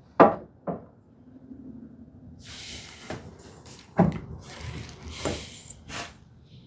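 Workshop handling noises as the cherry lid and support rail are shifted and set on the bench: a few sharp wooden knocks, the loudest just after the start, with scraping and rubbing between them.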